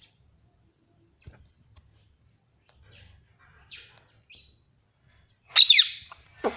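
Pet ring-necked parrot making a few faint short chirps, then one loud, harsh call that falls in pitch near the end.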